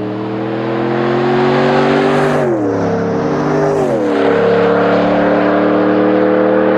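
Ram 1500's 5.7-litre Hemi V8 running through a Flowmaster FlowFX cat-back exhaust with a straight-through muffler, under acceleration. The engine note climbs, drops sharply about two and a half seconds in and again about four seconds in, as at gear changes, then holds steady.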